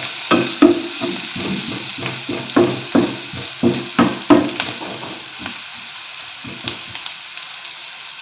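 Onions and spices sizzling in hot oil in a frying pan while a spoon stirs them, knocking and scraping against the pan about twice a second for the first half, then less often.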